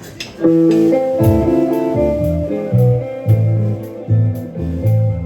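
Live band of two guitars, bass guitar and drum kit comes in together about half a second in and plays a steady, upbeat groove, with low bass notes and drum hits falling about twice a second.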